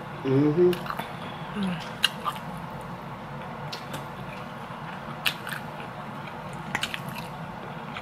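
A person eating: mouth and chewing noises with a scattered handful of sharp clicks and smacks. A short hummed voice comes about half a second in.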